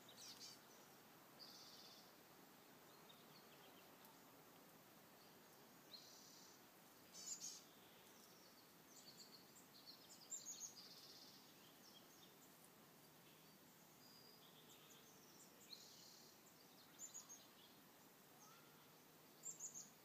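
Small birds giving short, high chirps and calls every few seconds, some in quick clusters, over a faint steady background hiss.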